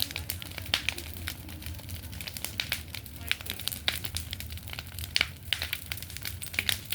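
A bonfire crackling: sharp, irregular snaps, several a second, over a low steady rumble.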